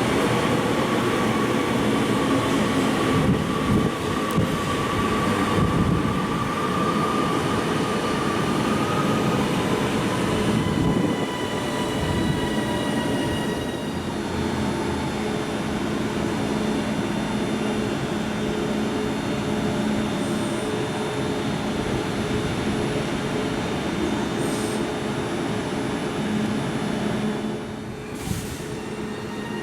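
Passenger train running at a station platform: a steady low hum, with a high whine that rises slightly over the first nine seconds. Fainter, higher steady tones follow about ten to fourteen seconds in.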